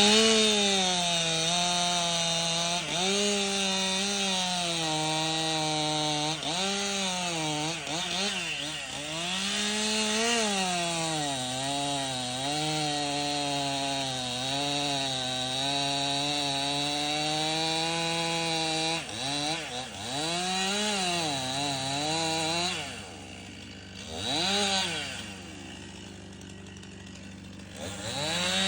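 Stihl MS 261 C two-stroke chainsaw at full throttle, ripping wood along the grain, its engine pitch repeatedly sagging under load and picking back up. About 23 seconds in it drops to idle, revs once briefly, then opens up again near the end.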